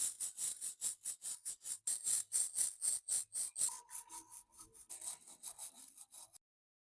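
Quick back-and-forth hand rubbing strokes on a rusty binocular part, about four to five a second. The strokes get fainter and slower in the second half and stop abruptly near the end.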